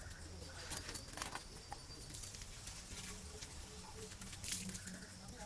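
Irregular light knocks, taps and scrapes with a faint patter, from hand-cleaning the scale off an electric water heater's brass tank drum, over a faint steady hum.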